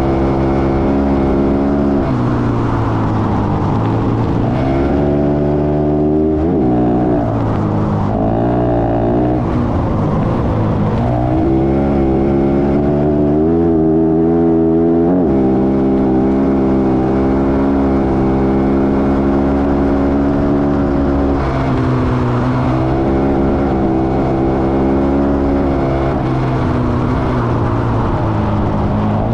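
Motorcycle engine running at a steady cruising speed, with its pitch rising and falling a few times as the throttle changes, over steady road and wind noise.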